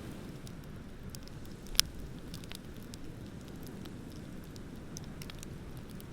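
Wood bonfire crackling, with scattered small pops and one sharp, loud pop about two seconds in, over a steady low rush of ocean surf.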